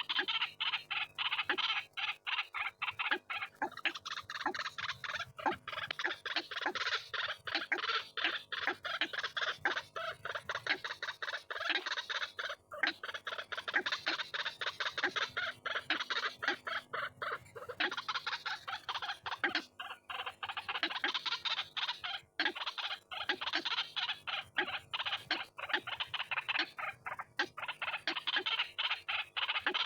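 White-breasted waterhens (ruak-ruak) calling in a continuous, rapid run of harsh repeated notes, several a second, with only brief pauses. This is a recorded lure call for attracting the birds.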